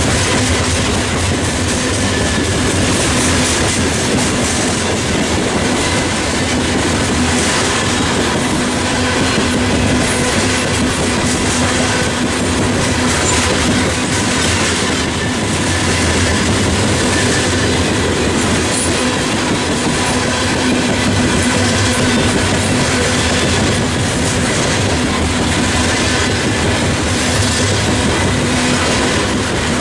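Freight train of steel coal hopper cars rolling past: a steady rumble of wheels on rail with clickety-clack as the trucks cross the rail joints, and a thin steady tone running underneath.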